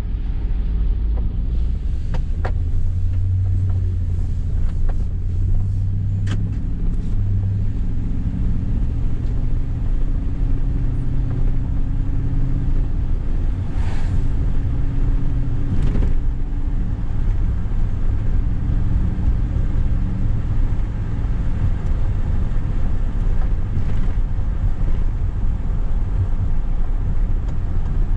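2012 Ford F-250's 6.2-litre gas V8 idling steadily, with a few faint clicks.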